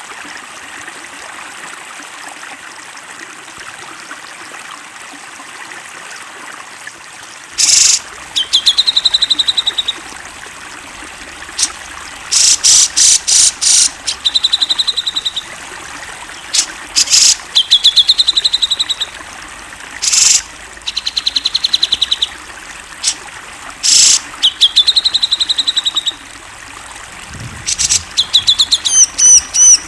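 Cucak jenggot (grey-cheeked bulbul) singing over a steady trickle of water. For the first several seconds only the water is heard. From about eight seconds in, loud song phrases repeat every few seconds, each a short burst followed by a fast run of high notes.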